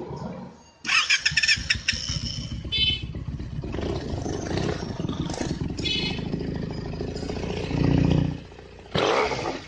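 Benelli TNT300 parallel-twin engine on a loud aftermarket exhaust, starting up about a second in and then running with throttle blips. A louder rev comes around eight seconds in, then falls away, and another sharp burst comes near the end.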